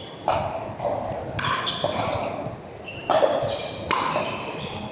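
Pickleball paddles striking the plastic ball during a rally, four or five sharp pops about a second apart, each echoing in a large indoor hall.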